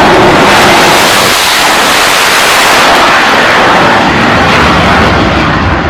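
Loud, steady roar of jet aircraft engines on a carrier flight deck, the hiss in it thinning toward the end.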